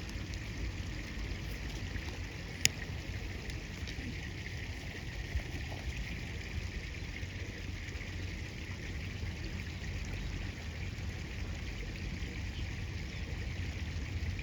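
Steady rush of flowing river water, with a single sharp click a little under three seconds in.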